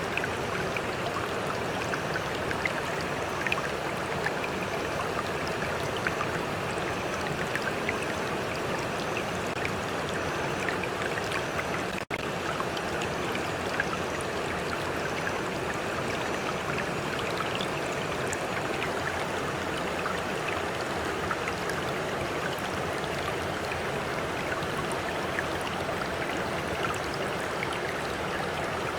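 Water in a stream flowing with a steady rush, with small splashes and trickles. The sound drops out for a moment about twelve seconds in.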